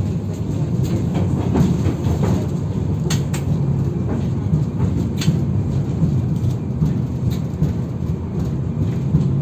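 Interior ride noise of a KTM 71-608KM tram in motion: a steady low rumble of steel wheels on the rails, with scattered sharp knocks and rattles.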